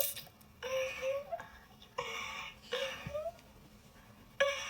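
A woman's wet sucking mouth sounds with short throaty vocal noises, in several brief bursts about a second apart: the sounds of oral sex.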